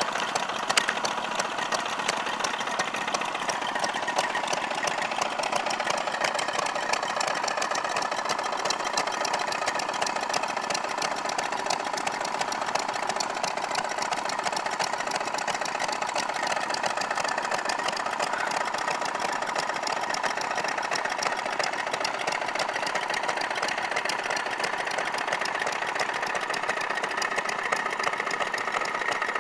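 Small vintage stationary engines running, a steady fast clatter of mechanical ticks.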